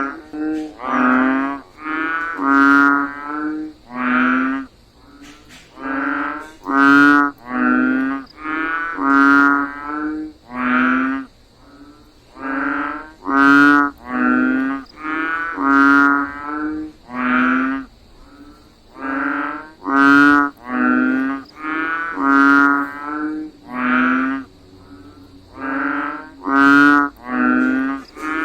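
A chorus of frogs calling after rain: repeated deep, drawn-out croaks, each about half a second long. They come about one or two a second, in bouts broken by short pauses, over a faint steady high-pitched hum.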